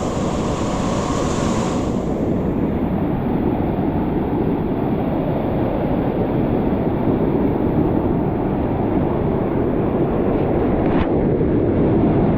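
Waterfall pouring steadily into a mountain stream gorge, a constant loud rush of water, with a brief hiss in the first couple of seconds and a single sharp click about eleven seconds in.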